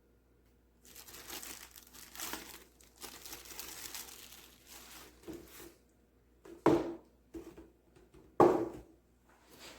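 Crinkly packaging material being handled and torn, a rustling crackle lasting several seconds, followed by two loud thumps near the end.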